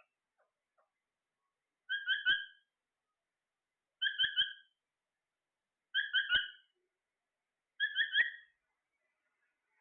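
Parrot whistling a short three-note phrase, repeated four times about two seconds apart.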